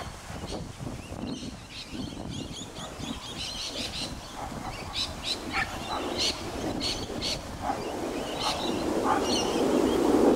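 Birds calling with many short, high chirps, over a regular soft tapping of footsteps on a paved path. Near the end a low rushing noise swells louder.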